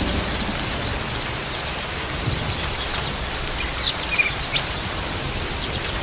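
Small birds chirping in many short, high calls, busiest in the middle, over a steady low background noise.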